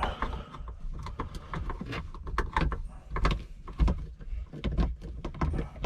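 Screwdriver working screws into the plastic housing of a Thetford C200 cassette toilet's flush unit: irregular clicks, scrapes and knocks of metal on plastic, with bumps of hands handling the parts.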